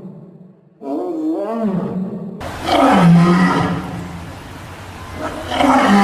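Animal calls: a drawn-out call with a wavering pitch about a second in, then two louder, rougher roar-like calls, the second near the end.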